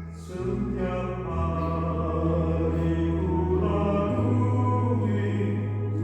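Church choir singing slow, held chords over a sustained low accompaniment, the harmony shifting a few times.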